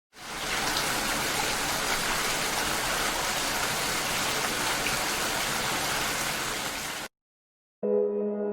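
Steady rain falling, an even hiss that fades in at the start and cuts off suddenly about seven seconds in. After a short silence, held musical tones begin near the end.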